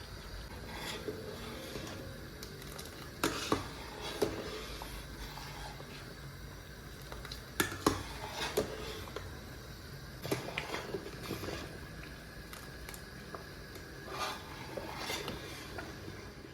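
Dishes and cutlery clinking and knocking in a kitchen, with scattered irregular clinks, a few louder ones around three to four seconds in and again around eight seconds in.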